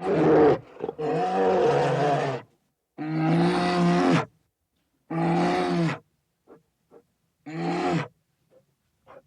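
A large wild animal calling five times, each call a deep, pitched roar lasting up to about a second and a half, with short silences between.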